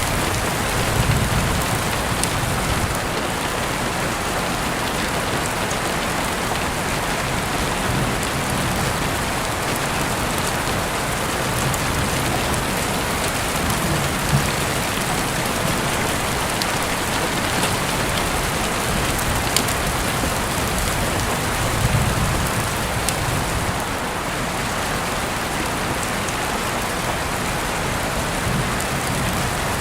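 Steady rain falling, an even hiss with a few sharp ticks and some soft low swells.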